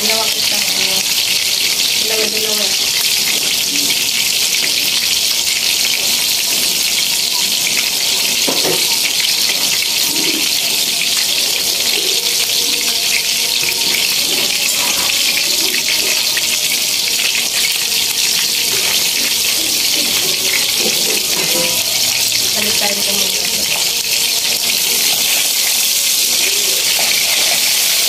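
Steady sizzling hiss from a wok of simmering pancit sauce, with rice noodles soaking on top after being sprinkled with water.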